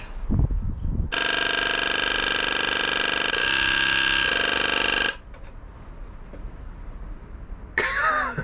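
Electric fuel pump running when powered: a loud, steady buzz that starts about a second in, lasts about four seconds and cuts off suddenly. It is really loud. A few low knocks come just before it.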